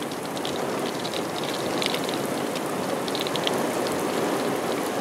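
Steady rain falling, an even hiss of drops with scattered sharper drop ticks.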